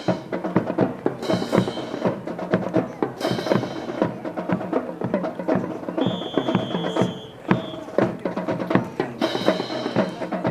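Percussive music with drums, mixed with rapid, sharp wooden clacks and knocks typical of drill rifles being spun, slapped and handled by a drill team. A high held tone sounds for about a second and a half around the middle.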